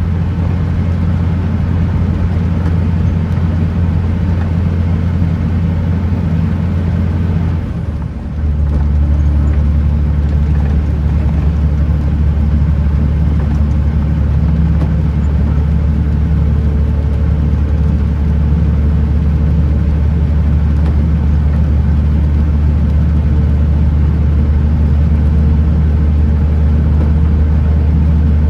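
Kenworth T909 truck's diesel engine droning steadily under way, with a short drop in level about eight seconds in before the drone picks up again.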